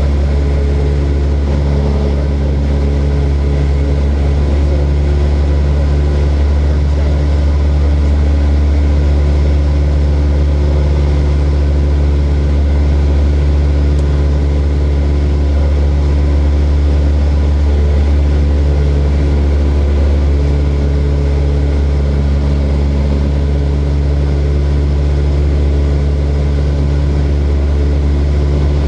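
Steady, loud drone of a small propeller airplane's engine and propeller in flight, holding an even pitch throughout.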